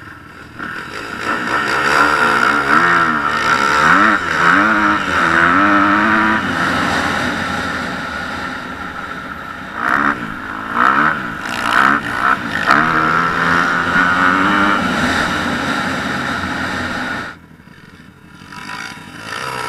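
Four-stroke dirt bike engine being ridden hard, revving up and down repeatedly as it accelerates and shifts. It gets loud about a second in, cuts back sharply near the end, then picks up again briefly.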